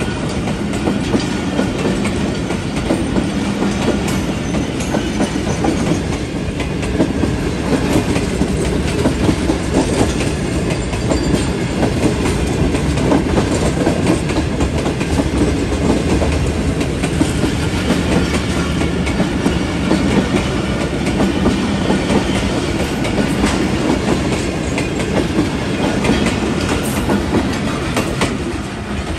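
Tezgam Express passenger coaches rolling past slowly, their wheels clattering over the rail joints in a steady clickety-clack. The noise drops away just before the end as the last coach goes by.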